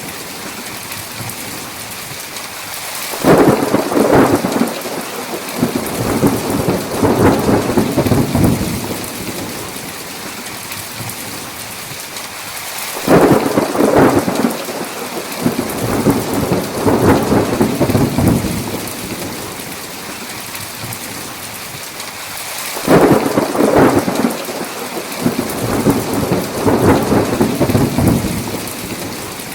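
Steady heavy rain with three rolls of thunder about ten seconds apart. Each breaks suddenly and rumbles on for several seconds before fading back into the rain.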